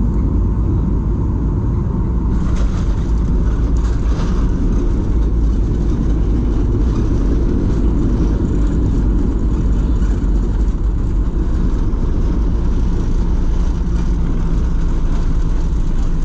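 Cabin noise inside a Boeing 737-800: a steady low rumble of its CFM56 jet engines and the airflow around the fuselage, with a hiss that rises about two and a half seconds in.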